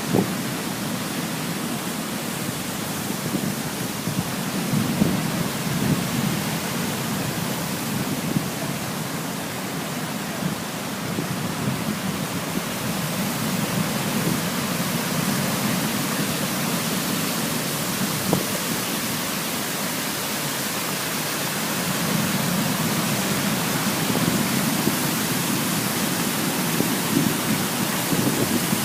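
Waterfall's water rushing steadily, swelling and easing slowly in its deeper part.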